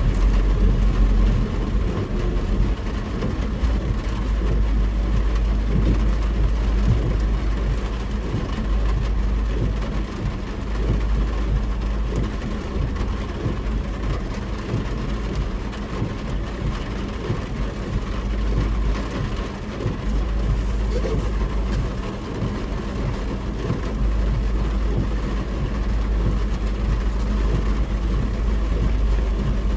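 Cabin noise of a car driving in heavy rain: a steady low rumble of engine and road with a continuous hiss of tyres on the wet road and rain on the car.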